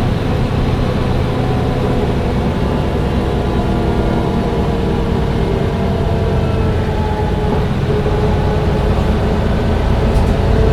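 Mercedes-Benz O405 N1 low-floor city bus under way: its diesel engine runs steadily, with a humming drivetrain note that shifts a little in pitch as the bus drives on.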